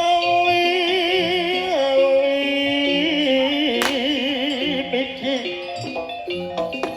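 Javanese jaranan gamelan music: a sustained lead melody with wide vibrato sliding between notes, over struck metallophone notes and drum. A single sharp crack cuts through about four seconds in.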